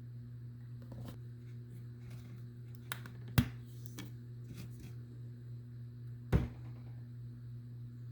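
A few light clicks and two sharp knocks, about three and a half and six and a half seconds in, over a steady low electrical hum.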